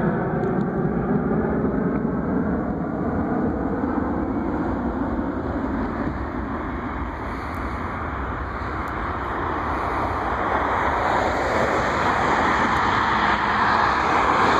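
Jet airliner passing low overhead: its engine tones fall in pitch over the first few seconds, then a steady roar that grows louder near the end.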